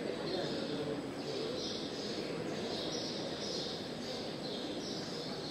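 A bird chirping over and over, short high chirps coming irregularly about once or twice a second, over a steady background murmur.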